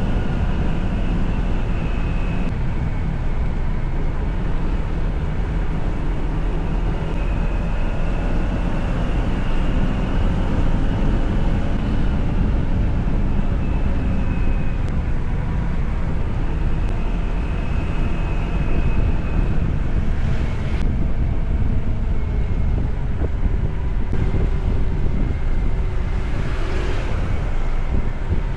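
Motorcycle running at steady riding speed, a continuous low rumble with wind noise on the microphone.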